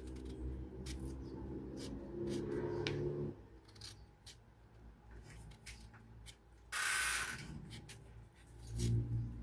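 Knife peeling and cutting a crunchy fresh mango: scattered crisp clicks of the blade through the firm fruit, with a louder rasping scrape about seven seconds in.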